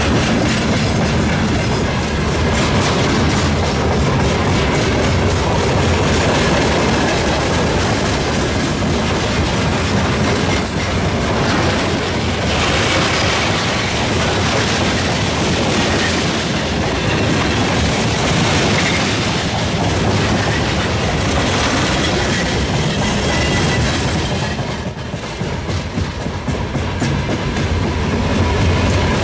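Freight train wagons rolling past at speed, wheels clattering over the rail joints in a steady rumble, dipping briefly near the end.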